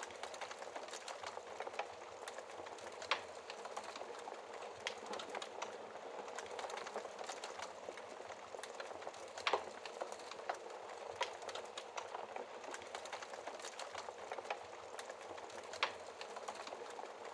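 Fireplace fire crackling steadily, a continuous hiss dotted with many small pops. A few louder snaps stand out, about three seconds in, near the middle and near the end.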